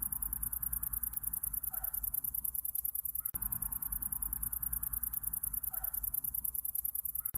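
Summer-night insect chorus: a high, rapid, even pulsing trill over a low steady hum, with a brief break about three seconds in where the looped recording restarts.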